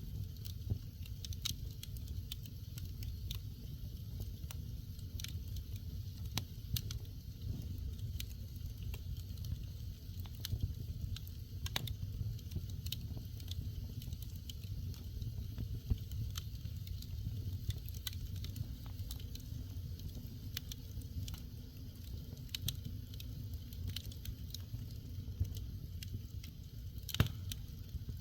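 Wood fire crackling in a fireplace, with irregular sharp pops and snaps over a steady low rumble of the flames. One pop near the end is louder than the rest.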